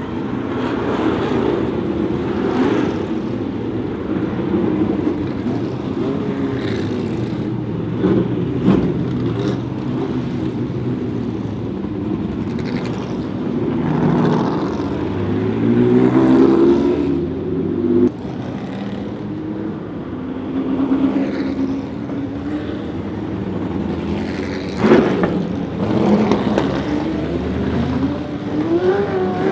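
Pre-1966 sports-prototype racing cars running on track, their engines rising and falling in pitch as they pass and accelerate one after another.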